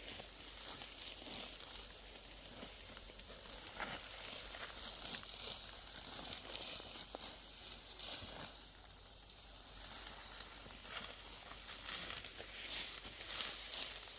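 Dry wheat stalks rustling and crackling as they are cut and gathered by hand: a run of short, crisp snaps over a steady hiss.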